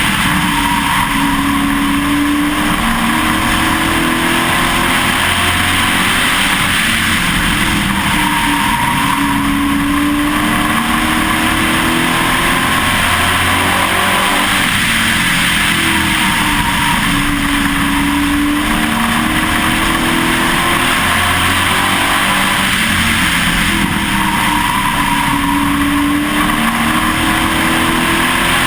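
Pro Truck race engine heard onboard at racing speed. It rises in pitch along each straight and drops off into the turns, about every seven and a half seconds, lap after lap. A steady rush of wind and road noise runs underneath.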